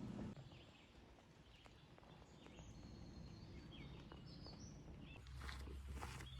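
Near silence with faint bird chirps.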